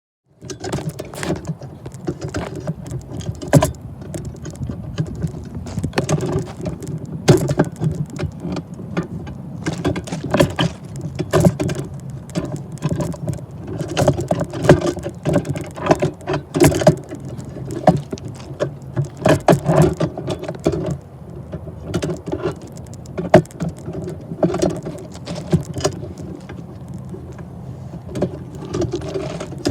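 Freight train running past: a steady low rumble with a dense, irregular clatter of clanks and rattles from the wheels and cars.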